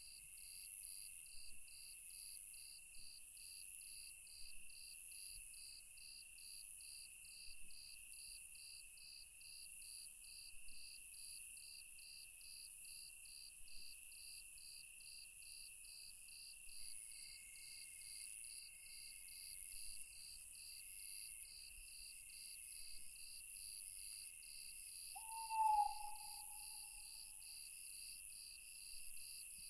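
Night forest insect chorus: crickets chirping in an even, steady pulse with a high continuous trill layered over it. About 25 seconds in, a single owl hoot, short and trailing off, stands out as the loudest sound.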